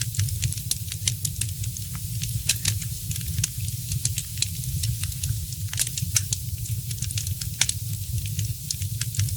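Wood fire crackling in a fireplace: frequent sharp pops and snaps, a few louder ones, over a steady low rumble.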